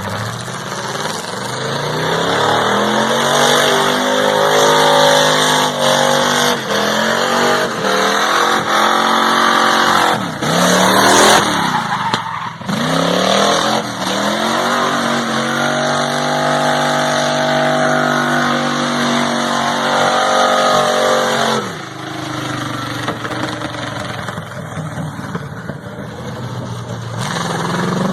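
Squarebody Chevy drag truck's engine under hard acceleration, its pitch climbing and dropping back twice at gear changes around ten and twelve seconds in, held high, then backing off about twenty-two seconds in.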